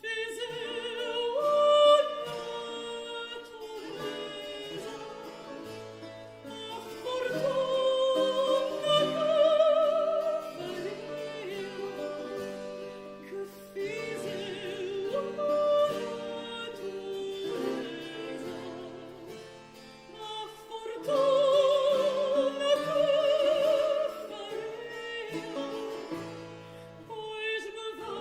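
Classical singing of an 18th-century Portuguese modinha: long sustained notes with wide vibrato over a light instrumental accompaniment, in phrases that swell and ease off, loudest about 8 to 10 seconds in and again around 21 to 24 seconds.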